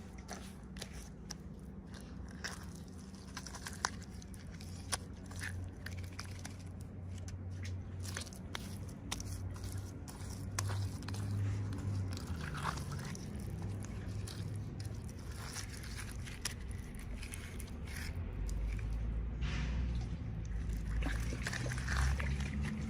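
Toy packaging being handled and opened by hand: scattered small clicks and crinkles of plastic and paper, over a low steady hum.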